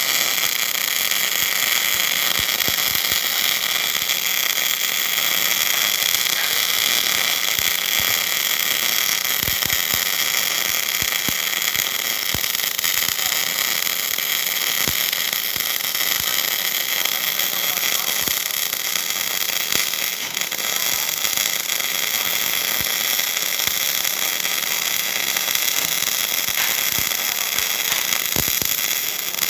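MIG welding arc running on a 3-inch steel hydraulic cylinder rod, laying a pass that fills the joint: a steady hiss with scattered sharp pops.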